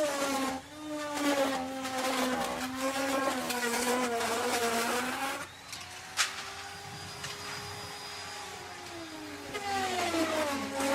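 Electric wood router cutting wood. The motor's whine drops in pitch and grows louder as it bites, for about the first half. It then runs freely, quieter and higher, and bogs down again as it cuts near the end. There is one sharp tick just after the middle.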